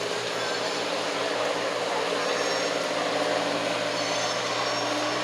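An engine running steadily: a low hum of several steady tones over a broad wash of background noise, with no change in level.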